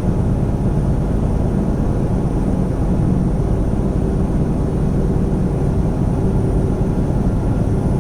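Semi truck's diesel engine and road noise heard inside the cab: a steady low drone while cruising on the highway.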